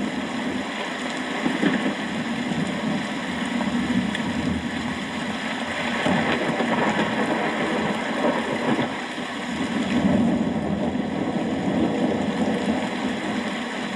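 Steady heavy rain, a dense hiss with a low rumbling undertone that swells and eases slightly.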